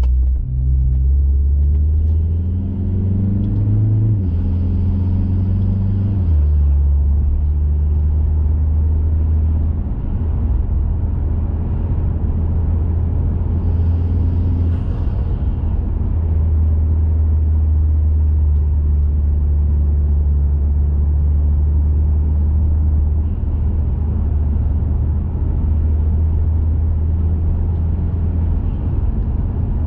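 Turbocharged four-cylinder engine of a Mazda 3 Turbo running through an aftermarket cat-back exhaust while driving. Revs climb and then drop twice in the first six seconds, then it settles into a steady low drone.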